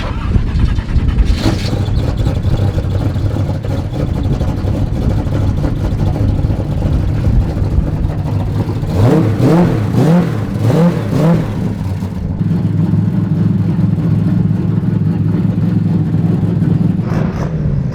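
A car engine running with a steady low note. About halfway through it is revved up and down a few times in quick succession.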